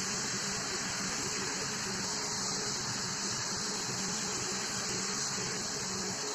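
A steady, unbroken hiss like a spray of air or water, with a faint steady hum underneath.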